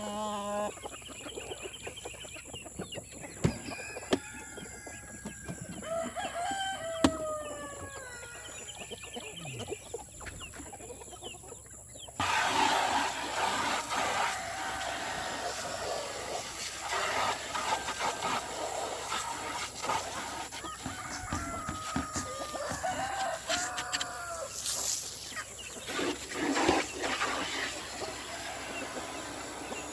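Chickens clucking, with roosters crowing. A louder, even noise joins about twelve seconds in.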